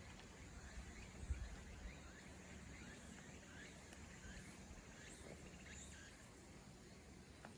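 Faint outdoor ambience with many short, quiet bird chirps repeating throughout, and a brief low thump just over a second in.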